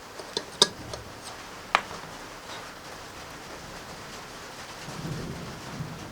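A few sharp metallic clicks in the first two seconds over a steady hiss, with a low rumble starting near the end.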